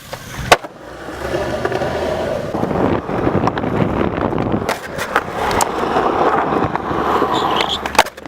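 Skateboard wheels rolling, with a sharp loud clack about half a second in and a few lighter knocks later from the board hitting the ground.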